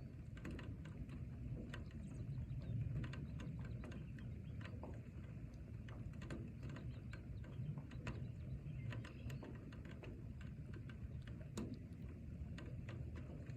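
Rain in a forest: scattered sharp drops falling irregularly, several a second, over a low steady rumble.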